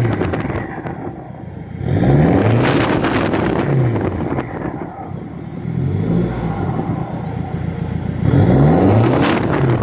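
2006 Ford Mondeo's 2.0 TDCi four-cylinder diesel engine being revved up and back down about three times shortly after a cold start. It has a decat, a deleted rear silencer and an EGR delete, so it sounds loud through the exhaust.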